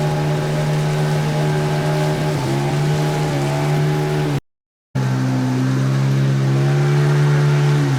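An engine running at a steady speed, its pitch dropping slightly about two and a half seconds in, with a brief cut to silence just after the middle.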